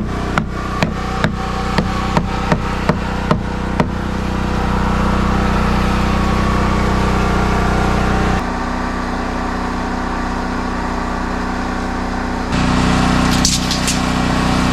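A small engine running steadily, with a quick series of sharp knocks, about two or three a second, over the first four seconds. The hum then continues alone, with sudden drops and jumps in level partway through.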